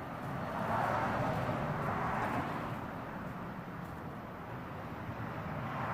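Outdoor background noise: a low steady rumble, with a rushing sound that swells about a second in and fades away by the middle.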